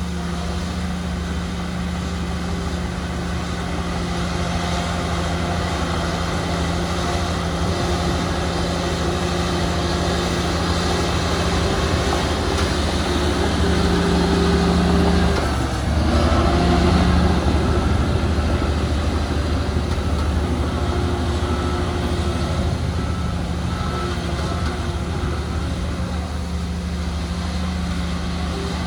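Heavy diesel earthmoving machinery running under load, a steady deep engine drone that builds toward the middle, dips briefly just past halfway, then picks up again. A faint repeating beep, like a reversing alarm, sounds through the second half.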